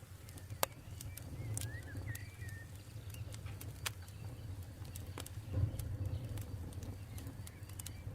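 Campfire crackling, with scattered sharp snaps over a steady low rumble of burning wood. A bird twitters briefly about a second and a half in.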